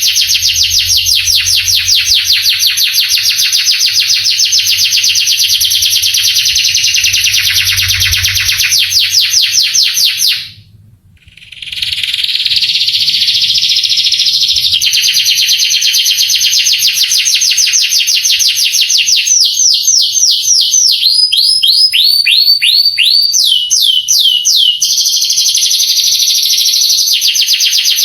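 Male canary singing a long, loud song of rapid, rolling trills, with a brief pause about a third of the way through. Later comes a run of slower, separate notes that sweep downward, before the fast trills resume.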